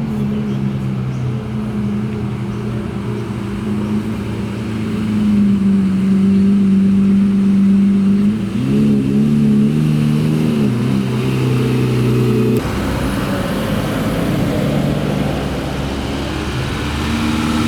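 Car engines running as cars drive slowly past at low speed. The first engine's pitch climbs and grows louder, then rises and dips with light blips of the throttle; about thirteen seconds in it cuts off abruptly and a different car's engine takes over.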